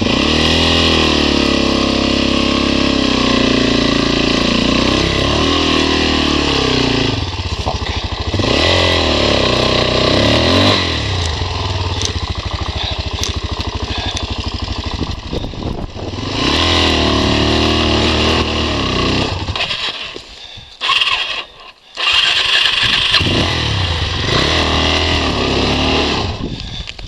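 Motorcycle engine revving hard and labouring, its pitch rising and falling as the throttle works the bike through a rutted, rocky climb. The engine note drops away twice around twenty seconds in, then picks up again.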